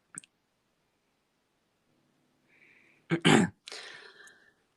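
A man clearing his throat: a short harsh burst about three seconds in, trailing off into a weaker rasp.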